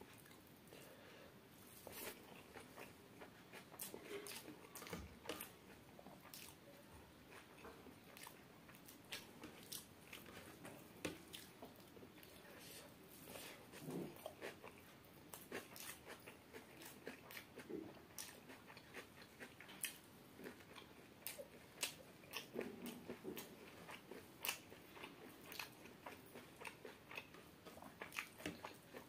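A person chewing chicken biryani eaten by hand: soft chewing with many irregular, short mouth clicks and smacks.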